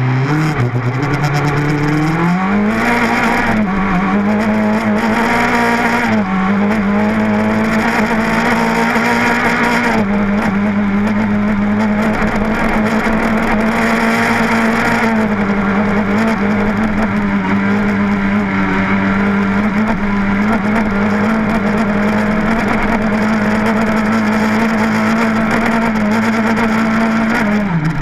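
Rally car engine heard from inside the cabin, accelerating hard on a dirt track. The revs climb sharply in the first couple of seconds, with brief dips at the gear changes, then hold high and steady under road and gravel noise for most of the run, falling near the end as the car lifts off.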